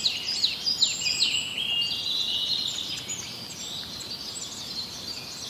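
Small birds singing: quick high chirps and downward-sliding whistles in the first second or so, then a steadier high twittering.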